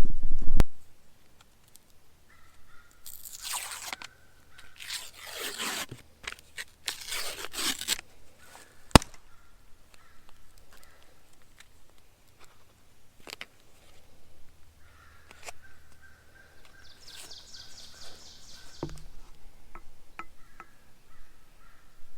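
Crinkling and tearing rustles from handling packaging or material, three bursts in the first half, with one sharp click about nine seconds in and a few faint ticks afterwards.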